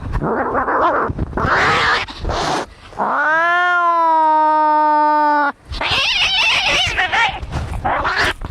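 Angry cats fighting: harsh hissing and spitting, broken about three seconds in by one long yowl that rises and then holds its pitch for over two seconds, before the hissing resumes.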